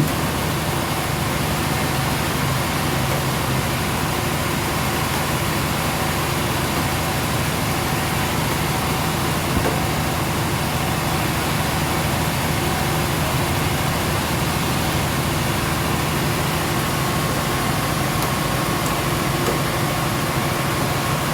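Sawmill machinery running with a steady, unbroken mechanical drone.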